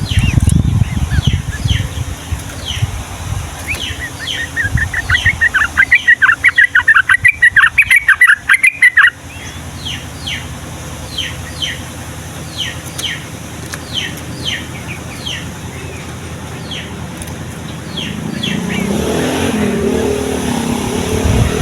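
Yellow-vented bulbul (trucukan) singing: repeated short falling whistled notes, with a loud, rapid chattering run about four to nine seconds in. A motor vehicle engine comes up in the background near the end.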